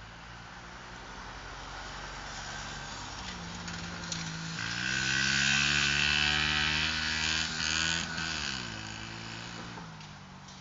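Pit bike engine revving as a rider goes by on the dirt track. It grows louder and higher through the middle, then drops in pitch and fades near the end.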